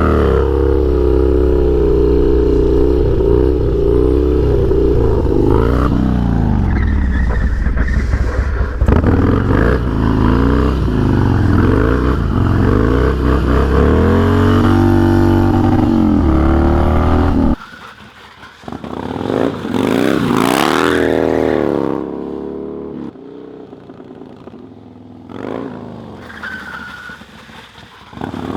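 Harley-Davidson Dyna V-twin revving hard while the rear tire is spun loose in a drift, the engine pitch wavering up and down for about seventeen seconds. It then drops away suddenly, followed by a briefer, fainter rev that rises and falls, and quieter engine sound.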